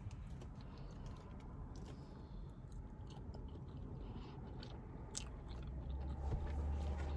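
A person chewing a mouthful of chili cheese fries, with scattered small mouth clicks.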